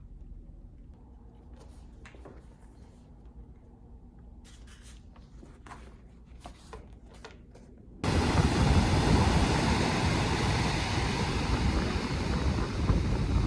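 Quiet room tone with a few faint clicks and taps. About eight seconds in it cuts suddenly to loud wind buffeting the microphone over ocean surf.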